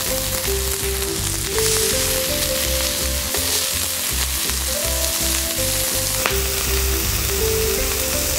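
Hamburger patties sizzling on a red-hot 3/8-inch metal plate, a steady frying hiss, under background music with a melody and a pulsing bass beat.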